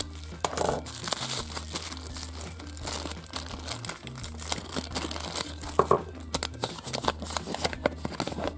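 Thin plastic packaging crinkling and rustling in the hands as a small clear plastic bag is worked open, with many irregular sharp crackles.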